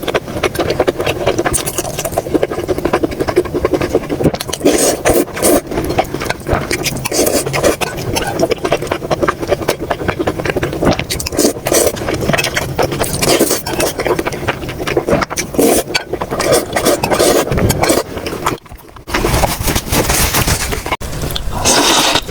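Close-miked eating sounds: chewing and mouth smacks, a dense run of small wet clicks and crackles that stops briefly about 19 s in.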